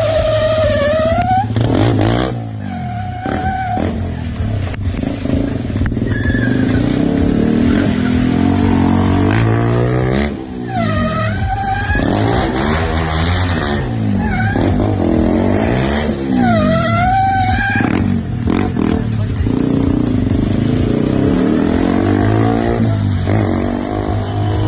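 KTM single-cylinder motorcycle engines revving up and down repeatedly, with a rising rev every few seconds over a steady engine drone.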